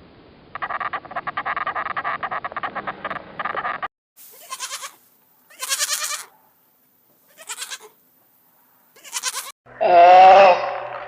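Goats bleating in a series of separate calls. First comes a rapid, rattling call of about three seconds, then four short calls with gaps between them, and near the end a loud bleat that wavers in pitch.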